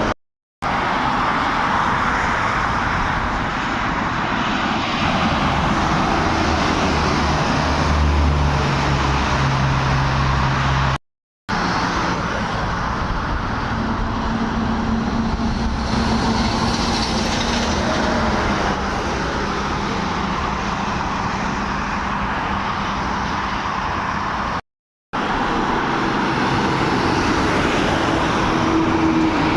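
Road traffic noise from heavy trucks on a highway: steady engine sound and tyre noise, with low engine tones that shift as vehicles pass. The sound is broken by brief dead-silent gaps, once near the start, about 11 seconds in and about 25 seconds in, where clips are spliced together.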